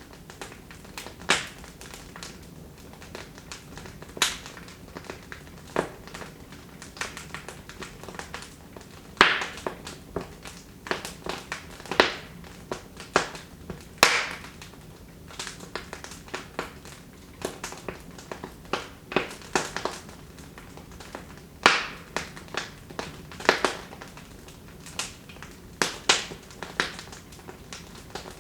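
Wood fire in a fireplace crackling, with irregular sharp pops and snaps from the burning logs over a low steady hiss.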